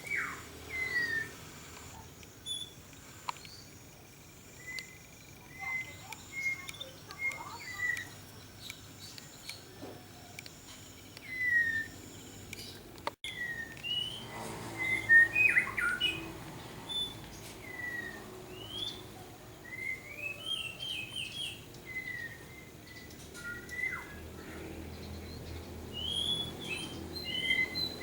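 Several captive songbirds chirping and calling, with many short, scattered chirps and quick whistled notes overlapping rather than one sustained song. The sound cuts out briefly about 13 seconds in.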